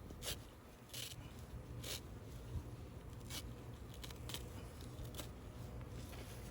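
Light, scattered scrapes and clicks of hands handling material while fitting a plug into the hive box, about one a second, over a faint low hum.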